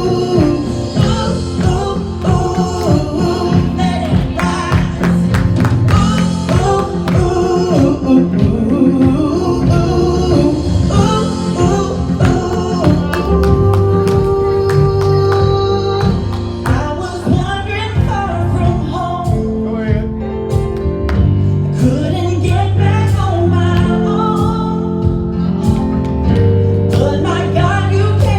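Live gospel worship music: singing over a band with a steady drum beat and held bass notes.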